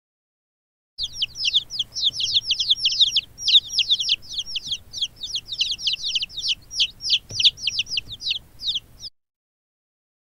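Baby chicks peeping: a fast run of high, shrill cheeps, each sliding downward in pitch, several a second, starting about a second in and cutting off suddenly near the end.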